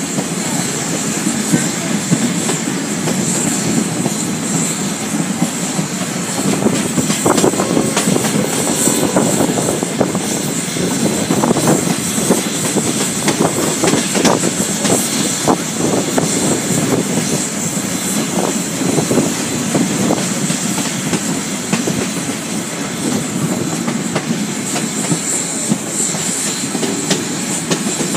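Steam-hauled train running, heard from a car coupled just behind the locomotive's tender: a steady rumble of wheels on the track with repeated clicks, thickest from about a quarter to past halfway through.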